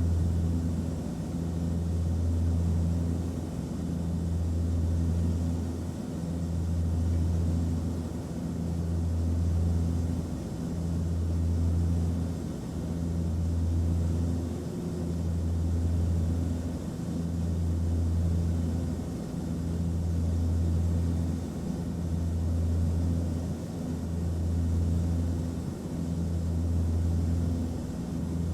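Airplane cabin noise: a steady low drone with a deep hum that swells and dips about every two seconds.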